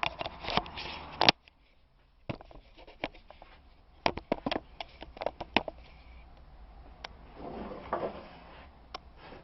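Clicks and knocks of coconut-shell feeders and dishes being handled and set down, in two clusters, with a short rustle near the end.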